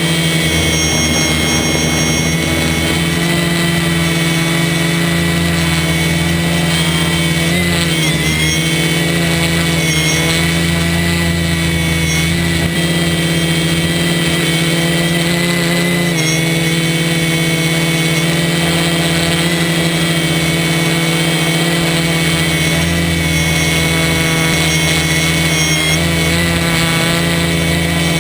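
DJI Flame Wheel F450 quadcopter's electric motors and propellers buzzing steadily in flight, the pitch wavering briefly about 8 and 16 seconds in.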